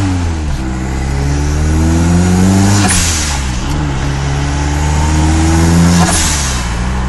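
Built 22RTE turbocharged four-cylinder engine of a 1993 Toyota pickup, heard from inside the cab, pulling hard through two gears. The engine note rises for about three seconds, then drops at the shift with a short burst of turbo hiss. It rises again and drops with a second burst of hiss near the end.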